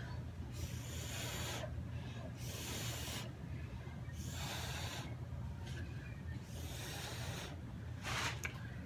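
Short hissing puffs of air blown across wet acrylic paint, about six of them, each under a second with pauses between, over a steady low hum.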